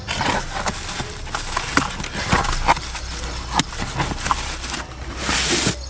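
Cardboard box and its plastic bubble-wrap packing being handled as the box is opened: irregular crinkles, taps and clicks, with a longer plastic rustle about five seconds in.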